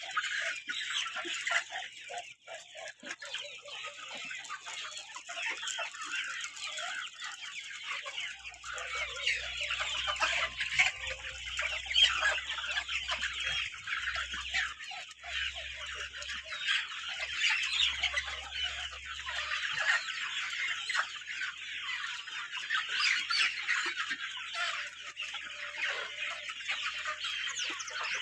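A flock of Kadaknath chickens clucking and chirping continuously, many birds calling over one another.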